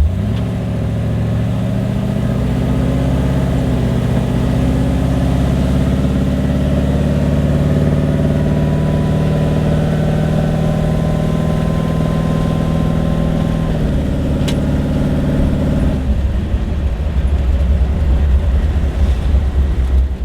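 A car engine running steadily. Its pitch rises a little at the start and then holds level, and the sound shifts about three-quarters of the way through.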